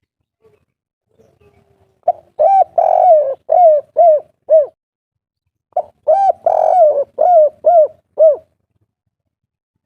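Spotted dove (tekukur/derkuku) cooing in the 'kuk 3' song. It gives two phrases a little over a second apart, each a few short coos and a longer rolling coo followed by three separate 'kuk' coos.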